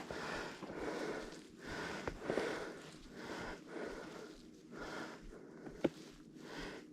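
A skier breathing heavily after a steep run, each breath a soft rush of air coming about once a second, with a small sharp click near the end.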